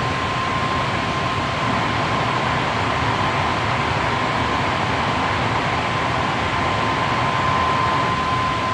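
Hankyu 7300 series electric train running at a steady speed, heard inside the car: an even rumble of wheels on rail with a steady high tone.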